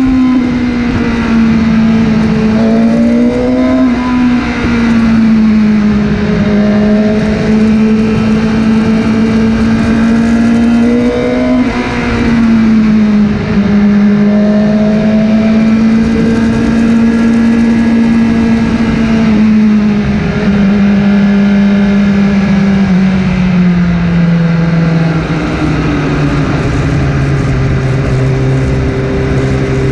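Motorcycle engine running under way, its pitch rising and falling with the throttle, then settling lower for the last few seconds as it slows.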